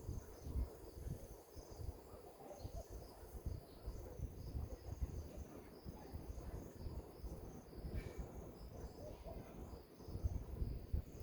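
Insects chirping steadily in quick, even pulses, high-pitched, over a low uneven rumble.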